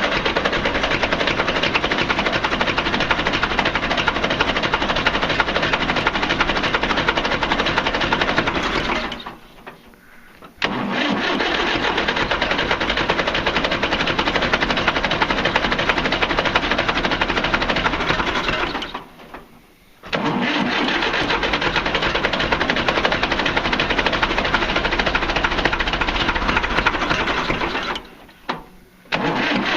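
International B275 diesel tractor engine being cranked over on its starter in three long bursts of about nine seconds, with short breaks between them. It is a hard cold start: the owner suspects water in the fuel.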